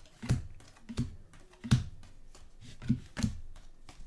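Trading cards being handled and set down one after another on a table: a string of irregular soft taps and clicks, about two a second.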